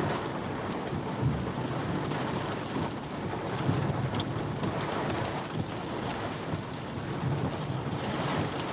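Heavy monsoon rain and gusting wind in a thunderstorm, a steady rushing noise with a few sharp hits of rain.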